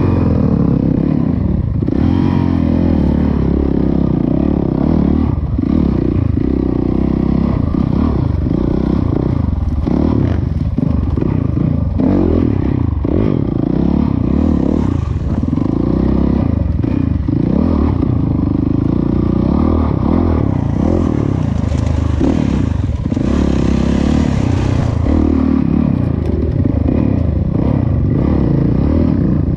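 Dirt bike engine running while riding, with heavy rumbling wind buffeting on an action camera's microphone.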